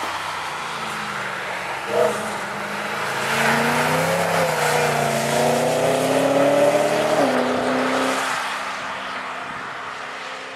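BMW M3 GTS 4.4-litre V8 accelerating hard on a wet track with the rear wheels spinning and throwing spray. The revs climb for several seconds, then drop sharply at an upshift and fade as the car pulls away. A short sharp crack comes about two seconds in.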